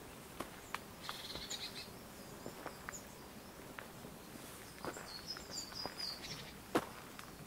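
Faint outdoor ambience with small birds chirping twice, briefly about a second in and again around five to six seconds in, over scattered light knocks and clicks, the sharpest one near the end.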